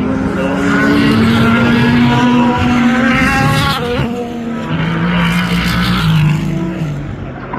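GT and prototype race car engines at high revs as cars pass at speed, in two swells: the first peaking about three and a half seconds in, the second about five to six seconds in.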